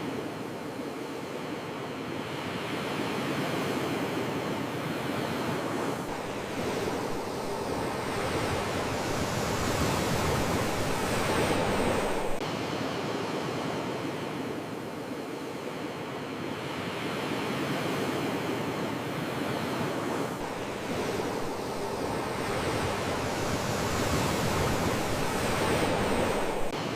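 Sea waves washing onto the shore: a steady hiss of surf that swells slowly over several seconds and drops off suddenly, once about twelve seconds in and again near the end.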